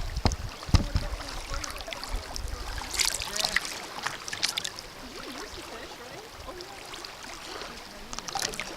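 Kayak paddle strokes: water splashing and dripping off the paddle blade in short bursts over a faint steady river trickle, with two low thumps near the start.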